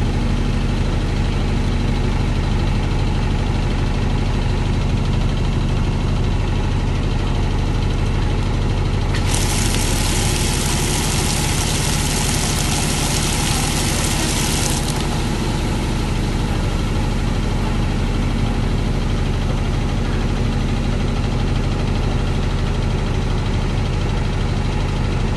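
Small 4 kg washing machine in its spin cycle, the motor and drum running with a steady low hum. About nine seconds in, a hissing rush sets in on top of the hum and cuts off suddenly some five seconds later.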